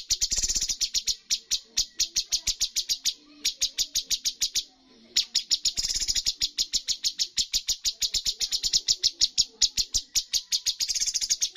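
Cucak cungkok singing its rapid-fire 'tembakan' song: long runs of sharp repeated notes, about six a second, with two brief pauses near the middle.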